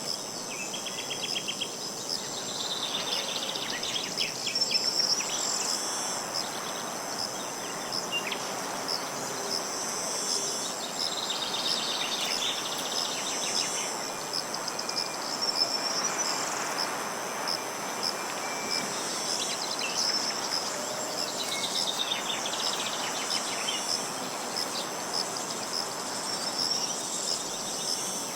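Insects chirring steadily at a high pitch, with short rapid trills that come and go every few seconds, over a steady outdoor hiss.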